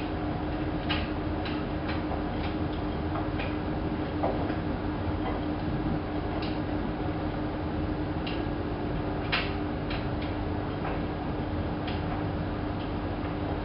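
Hanseatic HWM814A3D front-loading washing machine running, a steady hum with scattered, irregular clicks and light knocks.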